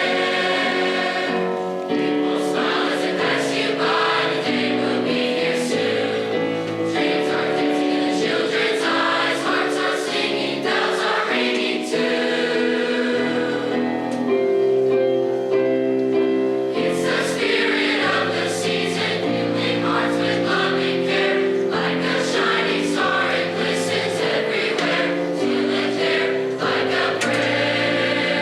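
High school choir singing a Christmas song, holding chords of many voices that shift every second or so.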